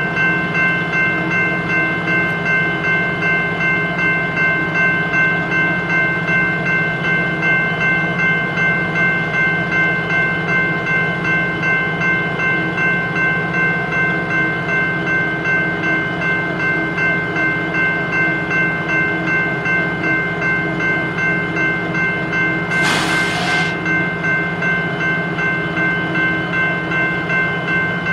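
Freight train rolling by with a steady whine of several high tones and a rhythmic pulse about one and a half times a second. A short hiss comes near the end.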